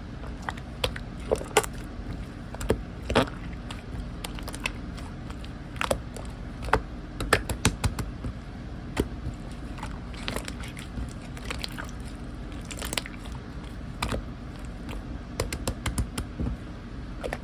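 Slime being squished and stretched by hand, giving irregular sticky clicks and pops over a steady low background noise.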